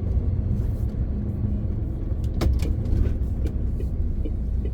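MAN TGX 18.520 truck's inline-six diesel engine droning steadily under way, heard from inside the cab along with road rumble. There is a sharp click about two and a half seconds in, and a few light ticks.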